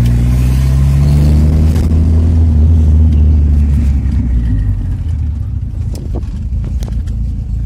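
Turbocharged VW AP four-cylinder engine in a Gol, heard from inside the cabin on the move. It pulls steadily under throttle, then about two seconds in its note breaks up and drops back, running lower and rougher with road rumble.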